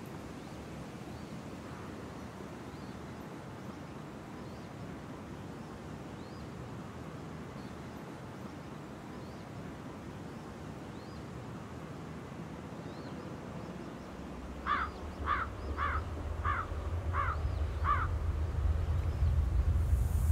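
A crow caws six times in quick, even succession about two-thirds of the way in, over faint outdoor ambience with small birds chirping. A low rumble starts at about the same time and grows louder toward the end.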